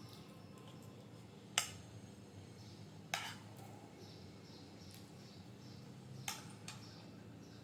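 Tableware clinking during a meal: four short, sharp clinks, three spaced a second or more apart and a last pair close together near the end, over faint twittering of birds.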